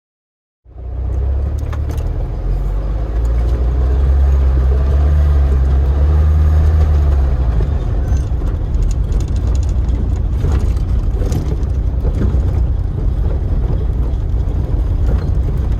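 Lada Niva driving: engine and drivetrain running with a deep rumble, coming in abruptly under a second in, its note rising for a few seconds and then levelling off, with scattered knocks and rattles.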